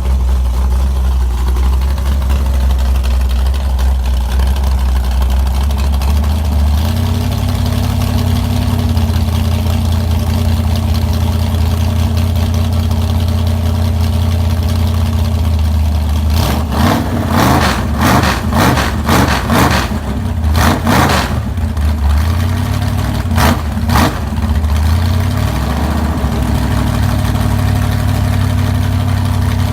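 Rebuilt 1970 Chrysler 440 Six Pack big-block V8, bored .030 over with a new cam, running cold on an engine stand. It idles, its idle stepping up to a higher speed about seven seconds in. In the middle comes a run of quick throttle blips, then it settles back to a steady idle.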